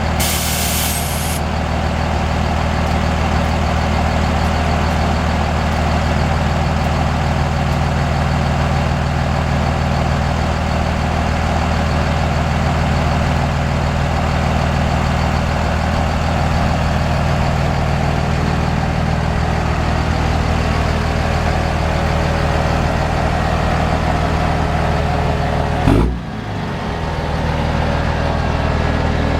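Diesel pickup truck engine idling steadily. A short hiss comes in the first second or so, and a sharp break near the end briefly drops the sound.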